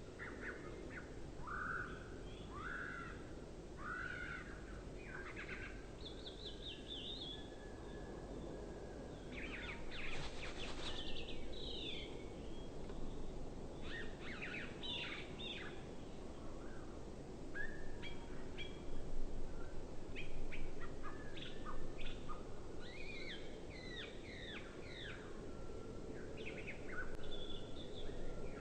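Songbirds calling and singing: a continuous run of short chirps and gliding whistles, louder for a stretch in the middle.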